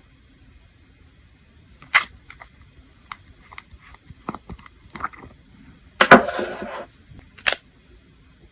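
Small objects being handled on a tabletop: light clicks and taps, a short rustling scrape about six seconds in, and a sharp click near the end.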